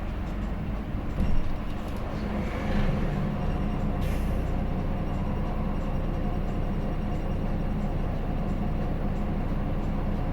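Interior running sound of a Hino Blue Ribbon City diesel city bus: the engine drone rises about three seconds in as the bus pulls forward, with a brief hiss about four seconds in, then steady running.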